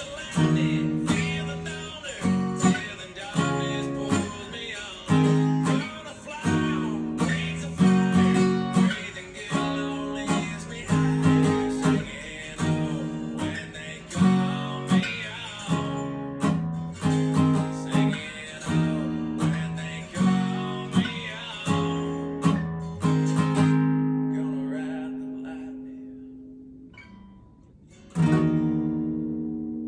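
Acoustic guitar strumming a repeating chord progression (E♭m, G♭, D♭, A♭) in a steady rhythm. Late on, one chord is left to ring out and fade away before the strumming starts again.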